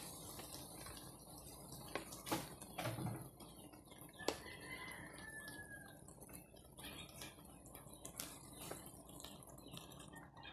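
Spaghetti sauce dripping from a pouch into a pan, then faint liquid sounds with scattered light clicks and knocks. A brief faint whistle about four to five seconds in.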